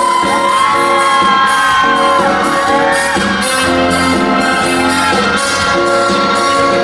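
Live pop music played loud in a concert hall, with fans screaming and whooping over it.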